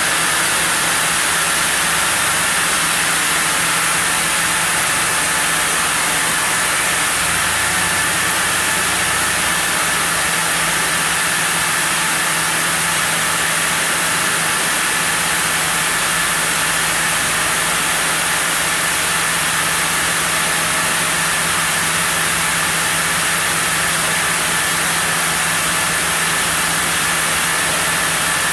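Sawmill saw milling a zelkova block, running steadily: a constant low hum under a strong high hiss.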